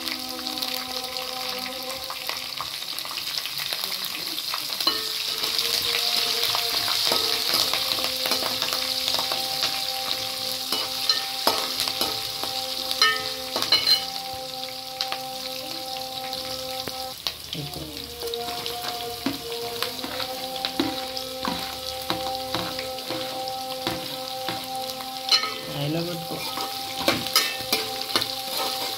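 Peanuts, green chillies and curry leaves sizzling in hot oil in an aluminium pan, the tempering for upma. A slotted metal spatula stirs them, scraping and clicking against the pan at intervals.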